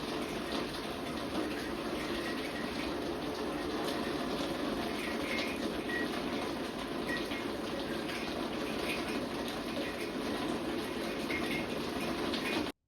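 Steady rushing noise like running water, with a few faint short high chirps; it cuts off suddenly near the end.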